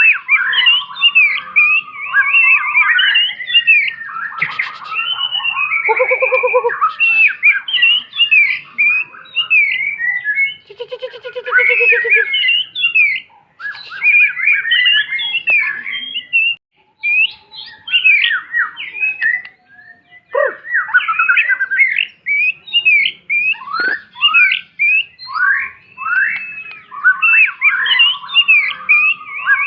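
Songbird singing a fast, varied run of chirps, twitters and whistled notes, with a couple of harsh buzzy calls mixed in and brief pauses about two-thirds of the way through.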